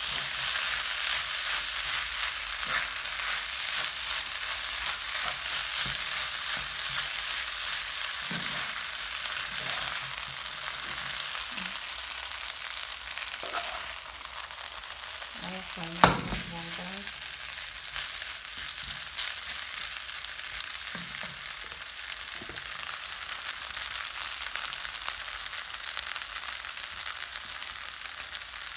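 Fried rice sizzling in a hot pan while a wooden spatula stirs and scrapes through it, with one sharp knock about halfway through, louder than the rest. The sizzle eases off a little in the second half.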